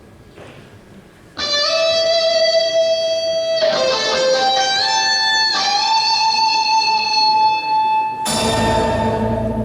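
Instrumental song introduction: an electric guitar lead plays a slow melody of long held notes with slight bends, starting about a second and a half in. A fuller backing with bass comes in near the end.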